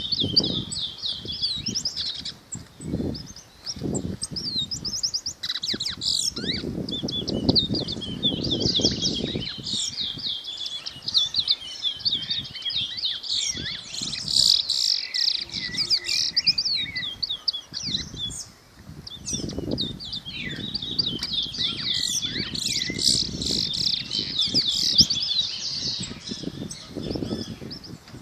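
Many small birds chirping and twittering in quick, overlapping notes, a dense high chatter throughout, with intermittent low rumbling underneath.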